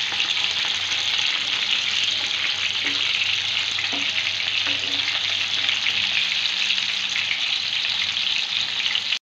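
Chicken mince kababs shallow-frying in hot oil in a non-stick pan, a steady sizzle, with a few light taps of a spatula against the pan as they are turned and lifted.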